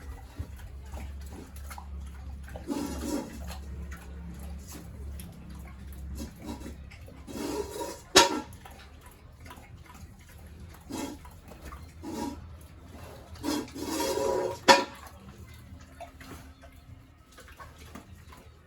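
Water splashing and sloshing in three bursts, as when a pig pen is washed down. Two sharp knocks, about 8 seconds and 14 seconds in, are the loudest sounds.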